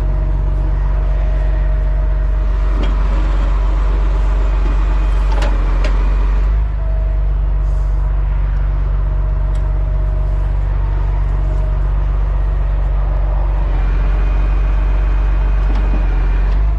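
Heavy wrecker's diesel engine running steadily with a deep, even drone, with a few sharp metallic clicks from the rigging.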